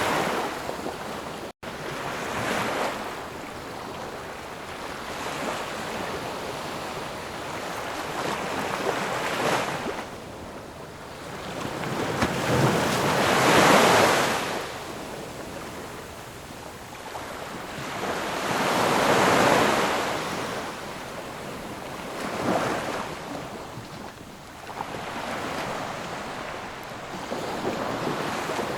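Ocean waves breaking and washing up the shore, swelling and ebbing every few seconds, with the two biggest breakers near the middle. The sound drops out for a moment about a second and a half in.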